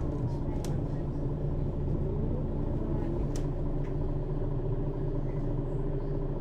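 Mercedes-Benz Citaro city bus's diesel engine and ZF Ecomat automatic driveline heard from inside the cabin over the second axle: a steady low drone. A faint rising whine comes in about two seconds in, along with a couple of short sharp clicks or rattles.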